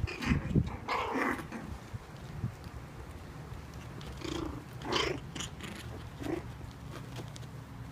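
Four-week-old Cairn terrier and Papillon cross puppies play-fighting, with small growls and short high yips coming every second or two.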